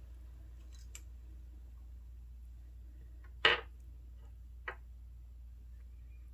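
Mostly quiet with a low steady hum, broken by one short knock about three and a half seconds in and a fainter click about a second later: small sounds of objects being handled on a desk.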